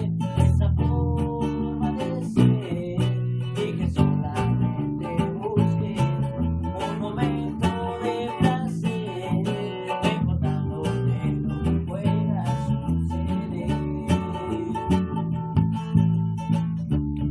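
Rock song played on guitar and bass guitar, the guitar strummed over a low bass line.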